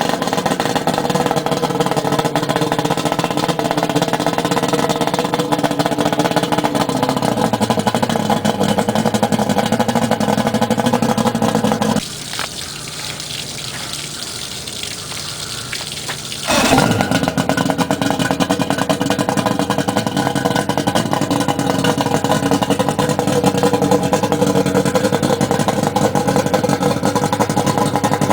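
1987 Johnson 200 hp V6 two-stroke outboard running steadily. About twelve seconds in the sound drops abruptly for about four seconds, then comes back with a sharp knock.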